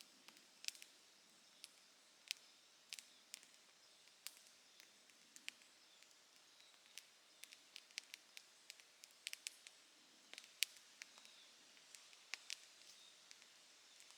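Campfire crackling: irregular sharp pops and snaps, sometimes several in quick succession, over a faint steady background, with one louder pop about ten seconds in.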